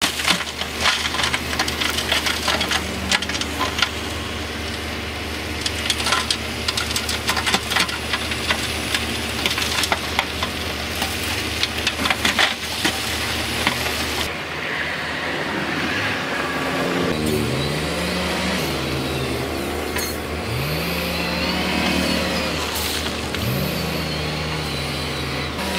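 Heavy diesel earthmoving machinery at work. An engine runs steadily under dense crunching and clattering of rock for about fourteen seconds. The sound then changes, and engine pitch rises and falls in repeated swells as the machines rev up and down.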